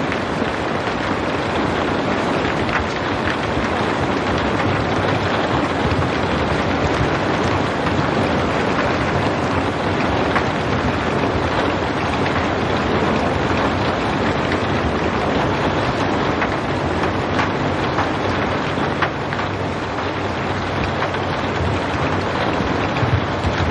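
Steady rain falling: a continuous even hiss with faint scattered drop ticks.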